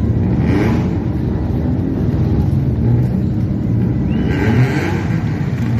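Car engines running loud and steady, with a brief rush of hiss about half a second in and again near the end.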